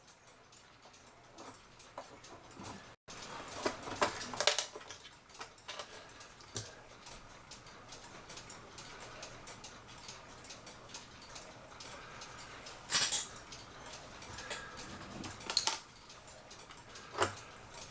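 Irregular light clicks and taps of small clock parts and tools being handled on a workbench, with a few sharper knocks.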